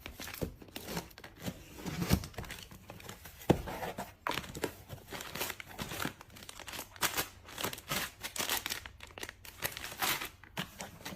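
Packaging crinkled and torn by hand in irregular rustles, with one sharp louder crackle about three and a half seconds in.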